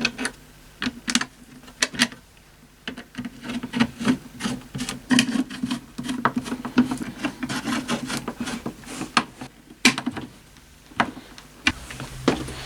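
Handling noise from connecting an antenna cable to a portable radio: scattered clicks and knocks with rubbing and scraping, busiest in the middle of the stretch.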